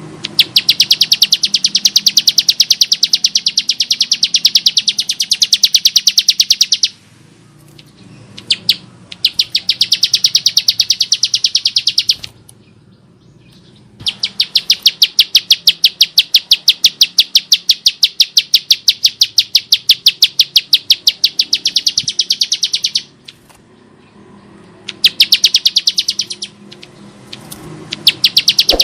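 Bar-winged prinia (ciblek sawah) giving its harsh, rapid call: long runs of fast, evenly repeated high clicking notes, in four bouts separated by pauses of a second or two.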